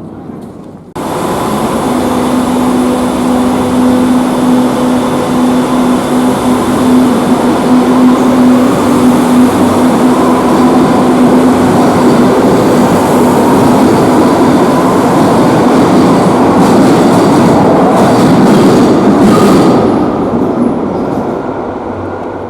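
Madrid Metro Line 5 train running through the station, a loud rolling rumble of wheels on rail with a steady hum over it. It starts abruptly about a second in and dies away near the end.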